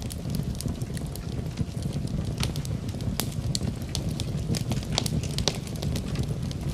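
Wood fire in a fireplace crackling: a steady low rush of burning with frequent sharp, irregular pops and snaps.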